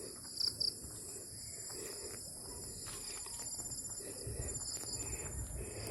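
Steady high-pitched chorus of insects, with two short chirps about half a second in.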